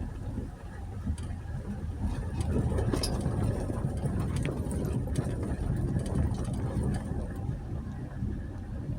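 2020 Jeep Gladiator's 3.6-litre V6 running at low speed as the truck crawls over a rough dirt trail, a steady low rumble with scattered clicks and knocks throughout.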